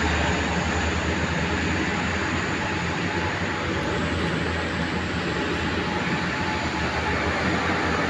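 Heavy truck's diesel engine running steadily under load, a deep low drone with a haze of road and wind noise.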